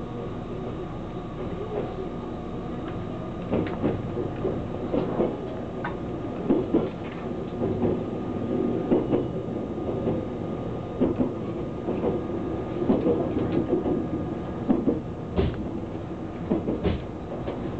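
A passenger train's running noise heard from inside the carriage: a steady rumble with irregular knocks and rattles scattered through it.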